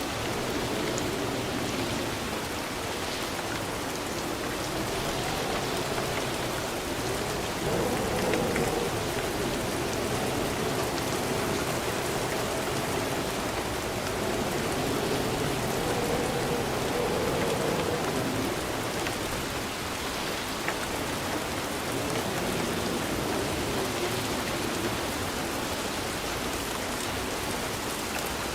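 Steady rain falling in an even hiss, with a wavering lower undertone that swells a little about eight seconds in and again around seventeen seconds.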